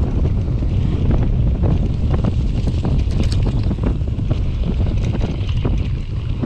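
Wind buffeting the microphone while riding a mountain bike, with a steady low rumble and frequent short rattles and knocks from the bike going over rough ground.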